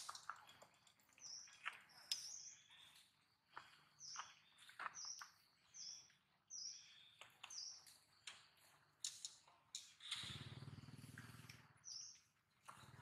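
Faint outdoor ambience: a small bird repeats a short high chirp every second or so, over scattered light clicks. About ten seconds in, a low rumbling noise rises for a couple of seconds.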